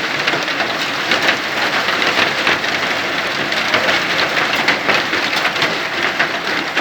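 Heavy rain falling steadily: a loud, dense hiss of drops with many small ticks of individual hits.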